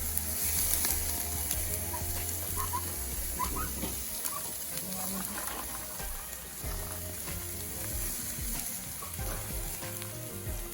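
Lamb leg sizzling steadily on a charcoal barbecue grill, with music playing in the background.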